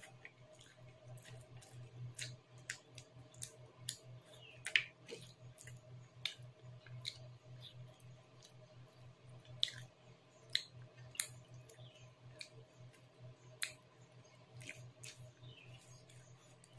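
Close-miked eating sounds: wet chewing and lip smacks, with sharp irregular mouth clicks, over a steady low hum.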